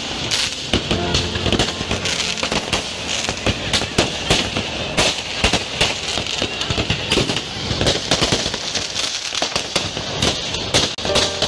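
A dense, continuous barrage of fireworks and firecrackers: many overlapping bangs and crackles, several a second, with no let-up.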